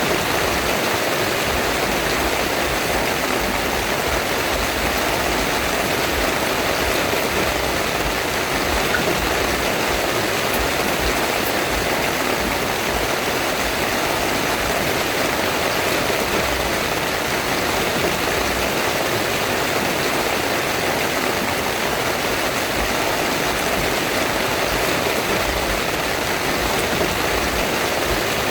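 Heavy rain falling steadily on a tent: an even, unbroken hiss.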